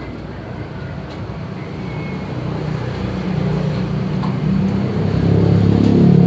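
A motor vehicle engine running with a low rumble, growing louder over the last few seconds.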